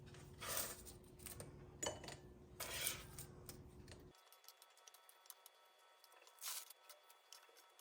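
Faint soft swishes, like handling or brushing sounds, come three times over a low steady hum. The hum cuts off abruptly about halfway through, leaving quiet room tone with faint ticks and one more soft swish.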